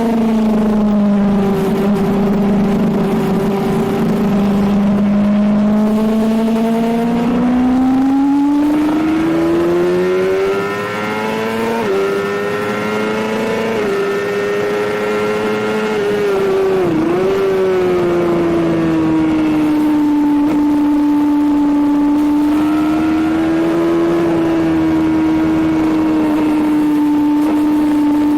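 Onboard sound of a Suzuki GSX-R750 K7's inline-four engine under load on track: the note climbs steadily through the revs, with two quick breaks a little under halfway as it shifts up, a sharp dip and recovery in the middle, then holds at a steady pitch.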